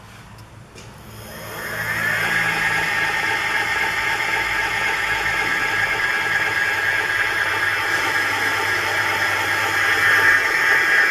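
Geared brushless electric hub motor spinning up about a second in and then running at a steady speed with a high, multi-toned whine.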